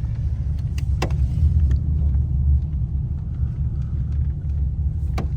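Low, steady exhaust rumble of a straight-piped Pontiac G8 GT V8 running at low speed, swelling a little about a second and a half in, with a few faint clicks.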